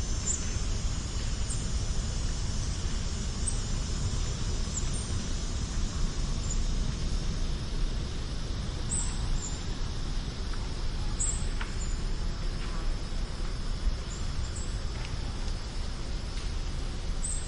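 Outdoor nature ambience: scattered short, high-pitched chirps from small birds or insects, over a steady low rumble.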